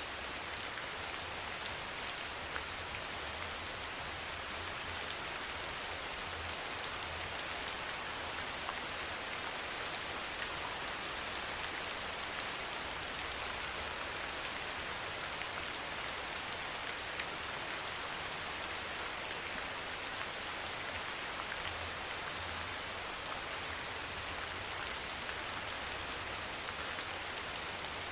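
Steady rain falling, a dense even hiss with scattered tiny drop ticks and a faint low rumble underneath.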